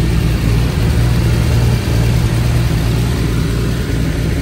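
Turbocharged BMW S52 straight-six in a 1998 E36 M3 running at a steady speed, with no revving, in one of its first runs after the turbo build.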